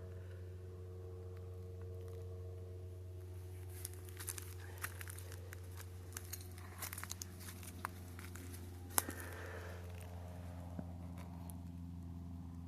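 Faint, scattered crunching and crackling of crushed oyster shell fragments, with one sharper crack about nine seconds in, over a steady low hum.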